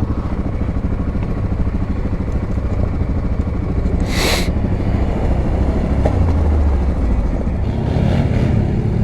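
ATV engines running, a steady low pulsing engine note that swells a little past the middle. There is a brief hiss about four seconds in.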